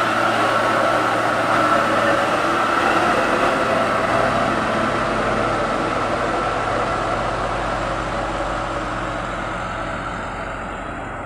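Heavy truck engine running under load on a steep climb, steady at first and then slowly fading in the second half.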